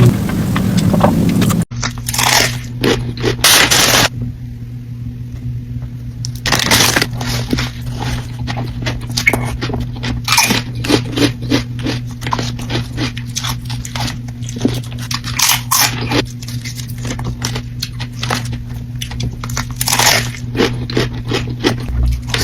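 Close-miked eating: crunchy food being bitten and chewed, a dense run of irregular crunches and crackles, with a few louder bites, over a steady low hum.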